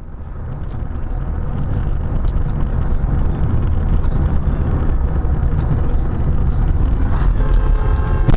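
Loud, deep road and engine noise of a moving car as picked up by a dashcam, building over the first couple of seconds. A steady pitched tone joins near the end.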